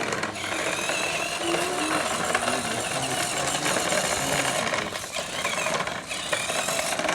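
Mini tractor running steadily with a fast rattling clatter.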